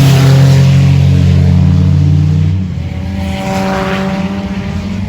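Race car engines running loudly on the track: a close engine drone that drops away about two and a half seconds in, followed by another car's engine note rising and falling as it goes by.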